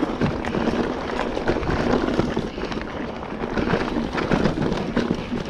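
Mountain bike rolling over a rough dirt trail: a steady rush of tyre noise with many small clicks and rattles from the bike.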